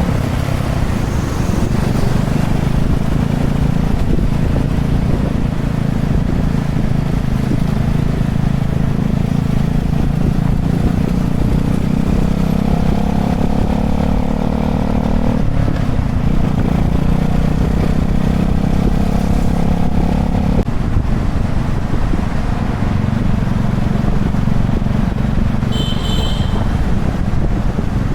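Honda Chaly minibike's small single-cylinder four-stroke engine running steadily under way, a constant low drone. Its note holds steady through the middle with a short break. A brief high chirp sounds near the end.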